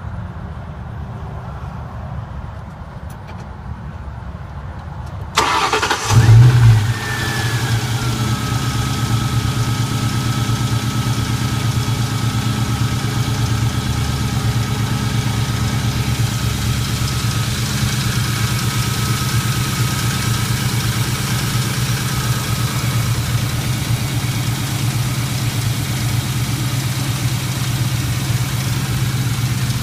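2001 Ford Mustang GT's 4.6-litre V8 cranking briefly and catching about five seconds in, flaring up loudly, then settling into a steady cold idle. The idle carries a loud tap, which the owner puts down to the timing chain, the lash adjusters or piston slap.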